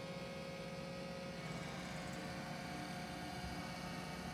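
iRobot Roomba j7+ robot vacuum running, a steady motor hum with a few steady tones.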